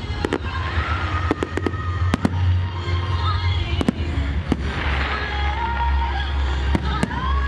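Fireworks going off in a display: sharp bangs and crackles at irregular intervals over a steady low rumble. Music plays through distant loudspeakers underneath.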